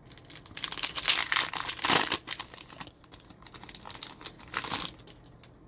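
Plastic wrapper of a 2023 Mosaic football card pack being torn open and crinkled, in two stretches of crackling: one from about half a second in to two seconds, another near the end.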